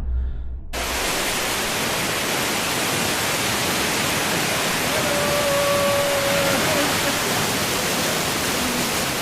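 Waterfall: a steady, even rush of falling water that cuts in abruptly about a second in.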